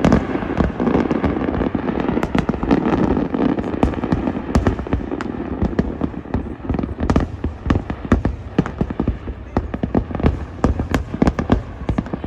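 Fireworks display: a dense, irregular stream of sharp bangs and crackles from many shells bursting in quick succession.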